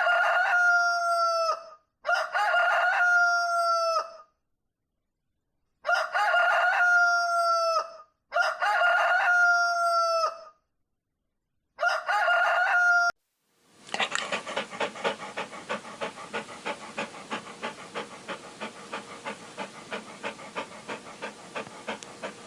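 A rooster crowing five times, each crow about two seconds long. About 14 seconds in, a different, rough pulsing sound takes over, about three pulses a second.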